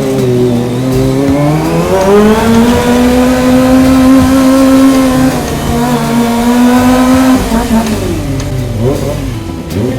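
Kawasaki ZX-25R's 250 cc inline-four engine under way. The revs climb and hold high with a brief dip at a gear change midway, then drop off. Near the end the revs rise and fall quickly a couple of times.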